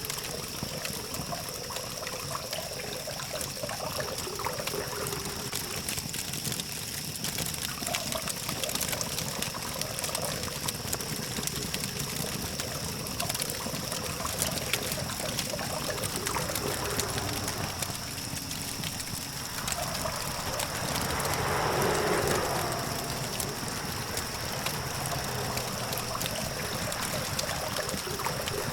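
Campfire crackling and popping over a steady hum of distant traffic, with a steady high whine; about 20 seconds in, a vehicle swells past and fades.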